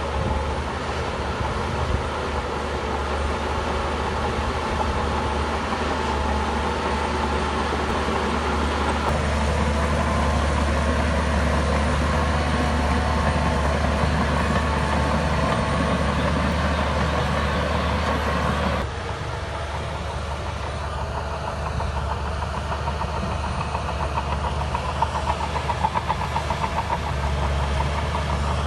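Shantui bulldozer's diesel engine running steadily under work, its note shifting about a third of the way in and dropping suddenly past the middle. Near the end there is a run of quick rattling clicks.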